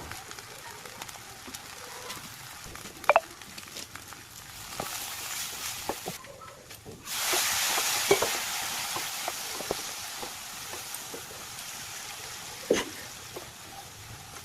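Food frying in hot oil in a pan, sizzling, with scattered taps and scrapes of a utensil against the pan. About seven seconds in the sizzling becomes suddenly much louder, then eases off slowly.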